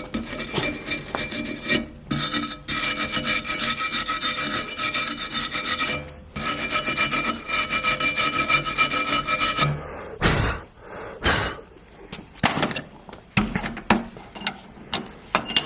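Continuous harsh rasping metalwork on a steel bracket for about ten seconds, with a faint steady whine, then it stops and is followed by several separate sharp knocks.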